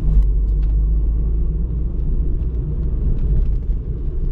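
Car driving, heard from inside the cabin: a steady, deep road and engine rumble with a few faint small ticks and rattles.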